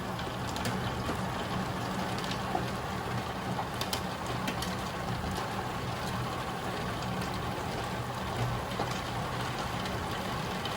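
Hail and heavy rain pelting a roof and window: a dense, steady hiss broken by scattered sharper ticks of hailstones striking, over a low steady hum.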